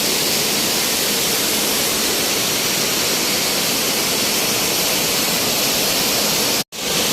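Waterfall rushing with a loud, steady roar of falling water. It cuts out abruptly for a split second near the end, then resumes.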